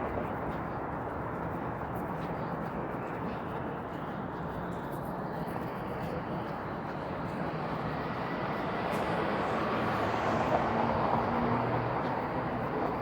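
Downtown street traffic: a steady hum of passing vehicles, swelling as a vehicle goes by about ten seconds in.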